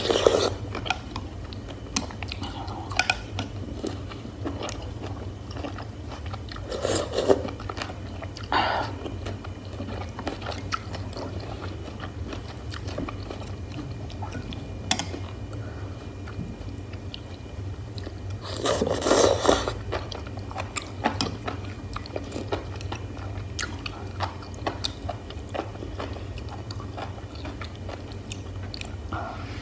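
Close-miked chewing of hotpot beef slices and mushrooms: steady soft, wet mouth clicks, broken by a few louder bites, the longest about two-thirds of the way through. A steady low hum runs underneath.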